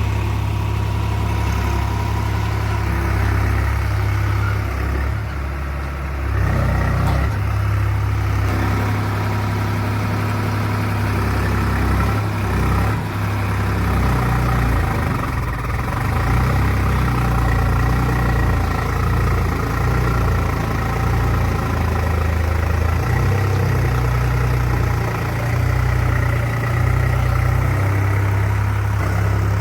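Tractor engine running steadily, its low pitch shifting up and down several times.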